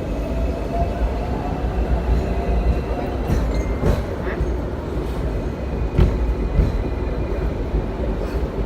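Hong Kong double-decker electric tram running on its rails, heard from on board: a steady low rumble of wheels on track, with a faint motor whine rising slightly in pitch over the first few seconds and a few sharp knocks from the rails around the middle.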